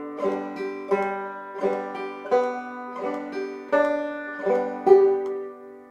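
Five-string banjo played clawhammer style: the basic frailing strum repeated on open strings, with no chord shapes, at a medium practice tempo of two to three strokes a second. The phrase ends on a loud final strum about five seconds in that rings out and fades.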